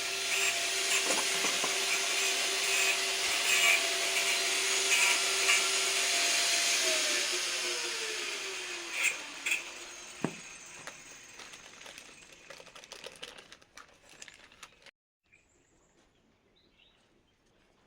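An electric power tool runs with a steady whine over a rasping hiss, then is switched off about seven seconds in and its motor winds down over several seconds.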